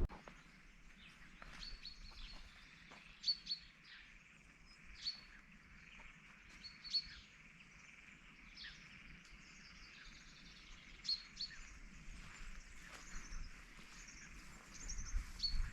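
Small birds chirping: short, high calls at irregular intervals over faint outdoor background noise.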